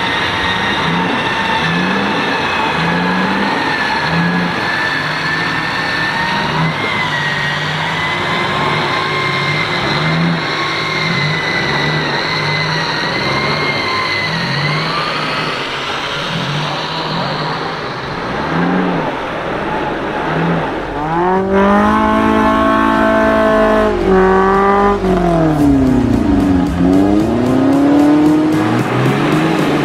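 Off-road 4x4 engine revving hard in deep mud, its pitch climbing and dropping over and over. Near the end it rises to high revs, holds, dips and climbs again.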